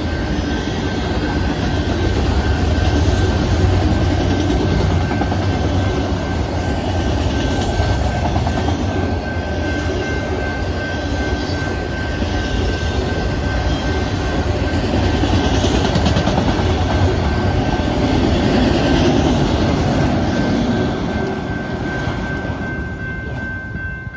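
Freight cars of a Canadian Pacific manifest train rolling past on the rails, with a continuous rumble and clatter of wheels and a thin, steady high tone running through it. The noise eases off toward the end.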